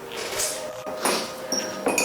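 A person sniffling and breathing hard in short noisy rushes while eating very spicy noodles, over faint background music.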